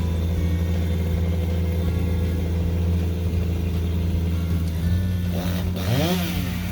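A large engine running steadily, with a brief rise and fall in pitch about five and a half seconds in.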